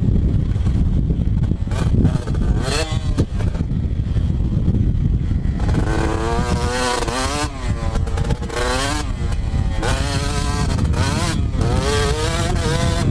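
Two-stroke dirt bike engine being ridden, revving up and backing off again and again, over a heavy low rumble. The pitch rises and falls several times, plainest from about halfway through.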